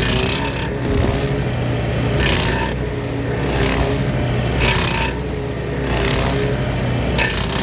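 A gas engine running steadily under load while a power tool chews into a wooden stump, with coarse bursts of cutting noise every second or so.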